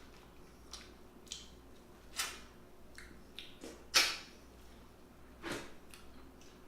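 A person eating: short, wet mouth sounds of chewing and lip-smacking, about half a dozen separate smacks, the loudest about four seconds in.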